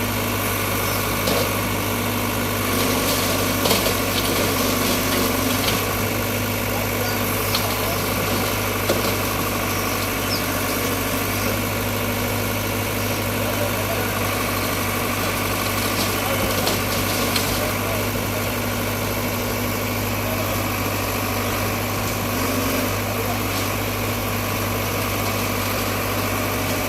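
Heavy diesel engine running steadily with an even low hum, with a few faint clicks.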